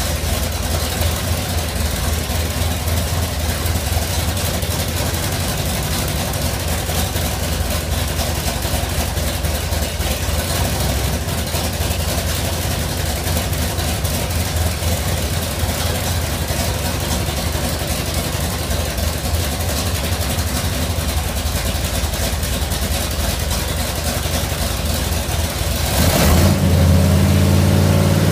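427 big-block Chevy V8 running on an engine dyno, idling steadily during timing and carburettor adjustments. Near the end it is revved up and held at higher speed, louder.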